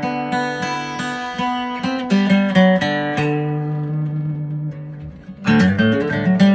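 Acoustic guitar playing an instrumental intro: picked and strummed chords, with one chord left to ring and fade before the playing picks up again about five and a half seconds in.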